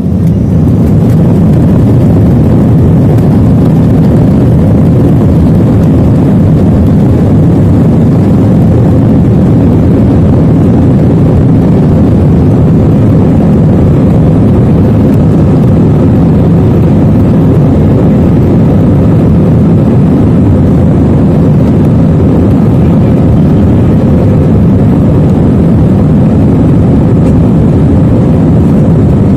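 Passenger jet's engines running loud and steady at takeoff, a dense low rumble heard from inside the cabin.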